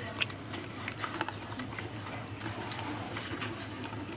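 A person chewing slate pencil: a run of crisp crunching clicks, thickest in the first second or so and sparser after, over a steady low hum.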